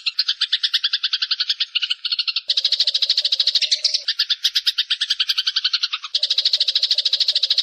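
Eurasian tree sparrow's long, rapid chattering trill, a fast string of harsh notes at about a dozen a second. Its pattern shifts abruptly about two and a half seconds in and again about six seconds in, as if the sequence were spliced or several birds overlapped.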